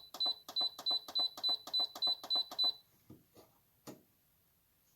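Instant Pot control panel beeping with each press of its buttons as the cook time is set: a short high beep with a click about three times a second, stopping about three seconds in, then a few faint knocks.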